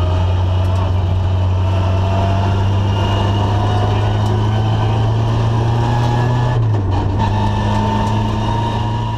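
Ford Escort RS2000 rally car's four-cylinder engine heard from inside the cabin, pulling at a steady low note that climbs slowly, with a brief break in the note about two-thirds of the way in, then easing off near the end. Tyre and road noise from the gravel runs underneath.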